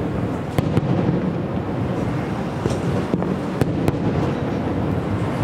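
Distant aerial firework shells bursting in sharp bangs, two close together about half a second in and several more around three to four seconds in, over a steady low rumble.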